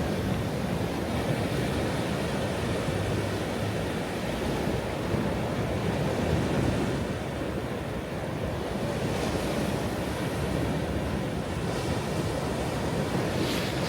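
Ocean surf: waves breaking and washing up a shore in a steady rush that swells and eases, with a brief hiss of foam near the end.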